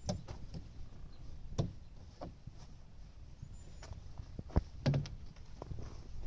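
Scattered irregular knocks and thumps, loudest a little over a second and a half in and twice near the five-second mark, over a low steady rumble.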